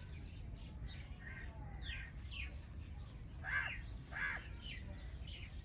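Birds calling: short chirps and falling notes from small birds, with two louder, harsh calls about half a second apart past the middle.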